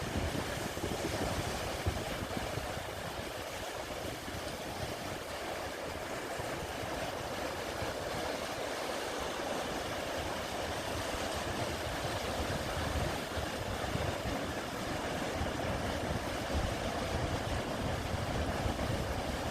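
Sea waves washing steadily onto a wide sandy beach, a continuous surf wash with no breaks.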